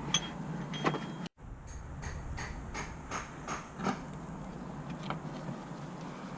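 Scattered light clicks and taps of tools and parts being handled during car repair work, with a brief break about a second in.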